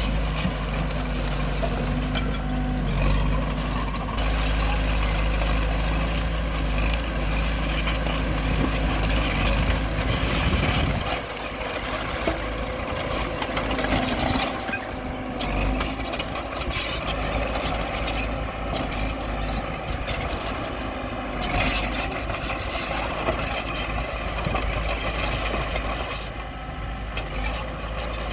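Bulldozer at work: its diesel engine runs steadily under short high clanks and squeaks of steel on steel and rock.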